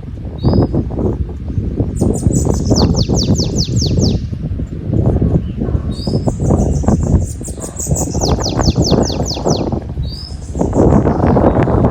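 Bananaquit (sibite) singing two high-pitched phrases of rapid descending notes, each opened by a short rising note, over heavy wind buffeting the microphone, which is the loudest sound.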